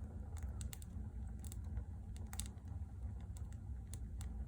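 Firewood crackling in a wood-burning stove: irregular sharp pops and clicks over a low steady rumble.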